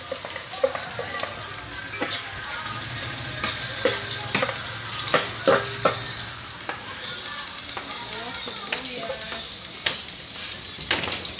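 Chopped garlic sautéing in hot oil in a metal pot: a steady high sizzle, with a metal spatula scraping and knocking against the pot several times as it is stirred.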